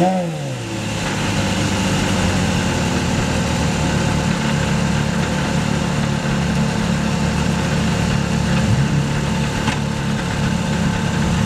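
Porsche Carrera GT's 5.7-litre V10 engine settling from a rev back to a steady idle right at the start, then idling evenly. A short sharp knock, the car's door shutting, comes near the end.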